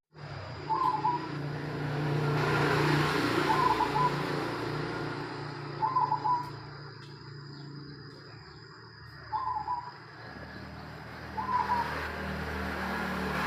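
A silver-coloured perkutut (zebra dove) cooing its song: five short, stuttered coos spaced two to three seconds apart, over a steady low hum of background noise.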